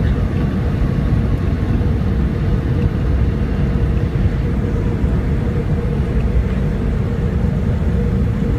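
Steady cabin noise of a Boeing 757-200 rolling on the ground after landing, heard from inside the passenger cabin: a loud, even rumble with a steady hum.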